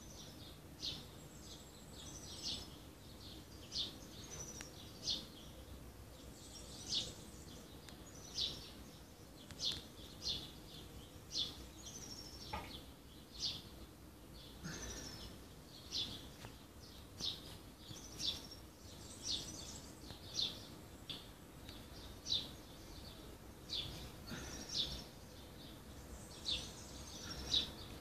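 Birds chirping repeatedly in short, high notes, about one or two a second, over a faint steady outdoor background.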